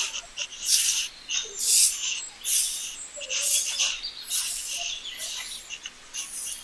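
Birds chirping outdoors, a short high, hissy call about once a second.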